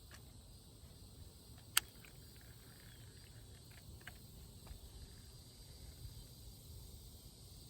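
Quiet outdoor ambience: a faint steady high insect drone over a low rumble, with one sharp click about two seconds in and a few fainter ticks after it.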